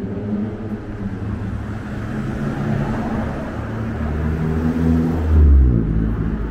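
A motor vehicle passing close by on a city street. Its engine grows louder to a peak about five and a half seconds in, then its note drops and it fades as it goes by.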